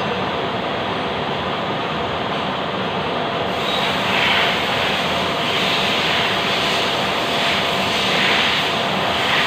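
Lathe running with a steady mechanical hum and a constant whine; about three and a half seconds in, a harsher hiss joins and comes and goes in waves.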